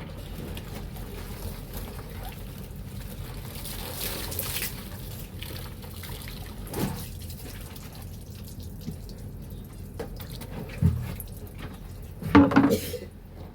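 Water sloshing and splashing as laundry is washed by hand in a basin, with a few separate splashes and the loudest one near the end.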